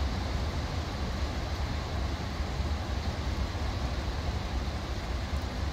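Heavy rain falling steadily: a dense, even hiss over a deep rumble.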